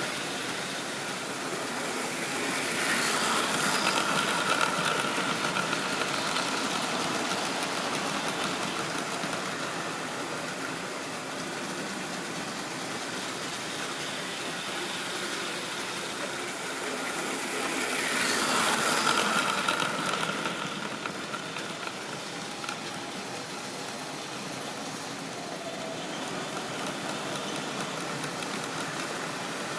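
Model railway train running on its track: a steady rolling rattle of wheels on rail. It grows louder with a whining tone as the train passes close, once about three seconds in and again about eighteen seconds in.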